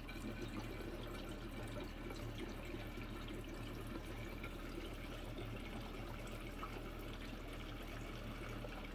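Premium gasoline trickling from a can into a 125 cc pit bike's small fuel tank: a faint, steady pouring, with a low steady hum underneath.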